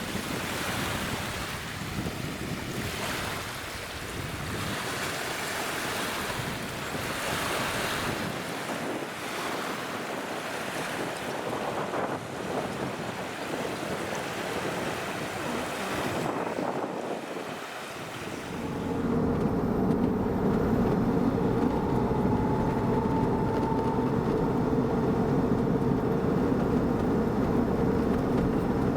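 Lake waves washing in with wind on the microphone, the rush swelling and fading every couple of seconds. About two-thirds of the way through, a Bremach camper truck's engine takes over as a steady, louder drone while driving.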